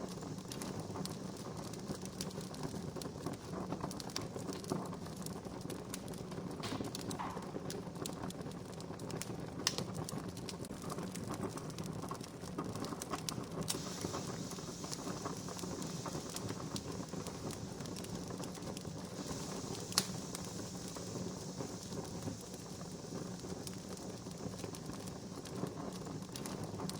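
Wood fire crackling steadily, with many scattered small pops and two sharper, louder pops, about ten and twenty seconds in.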